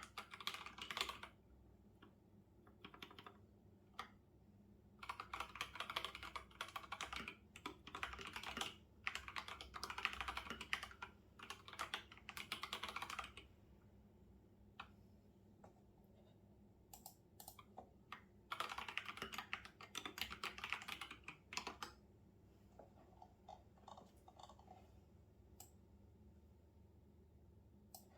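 Typing on a computer keyboard: fast runs of key clicks in three bursts, a few seconds each, with pauses and scattered single keystrokes between.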